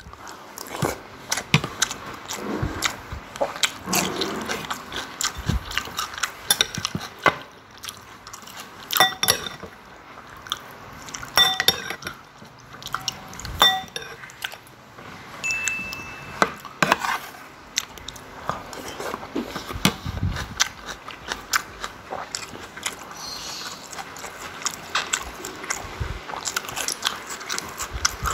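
Close-miked chewing and crunching of food, with a metal spoon clicking against the plate and glass soup bowl; three ringing clinks come in the middle.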